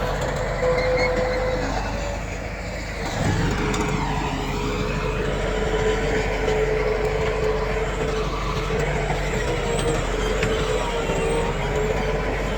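Heavy diesel earthmoving machinery running, a steady engine rumble with a constant whine. It eases briefly and picks up again about three seconds in.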